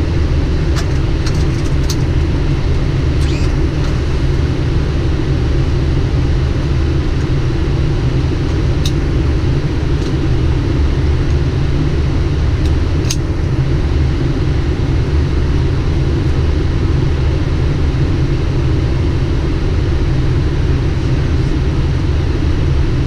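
Steady low rumble of airflow and engines in a Boeing 777 flight deck on final approach, with a few faint clicks.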